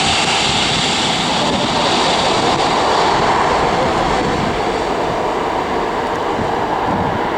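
Aircraft engine noise from a cargo plane, loud and steady, with its high hiss fading as the aircraft moves off.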